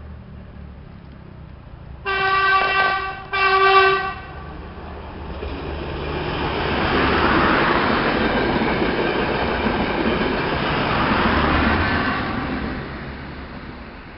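A passing train sounds its horn in two short blasts, the second one shorter, then rushes past on the line, its noise swelling to a peak and fading away.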